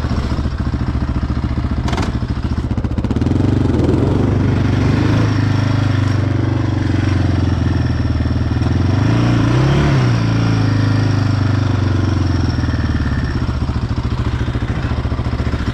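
Yamaha Raptor sport ATV's single-cylinder four-stroke engine revving under load, picking up about three seconds in and swelling again near ten seconds, as the wheels spin and dig into soft deep snow without grip.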